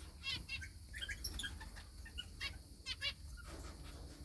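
Small pet finches chirping: a scatter of short, high calls and twitters, several at a time, over a low steady hum.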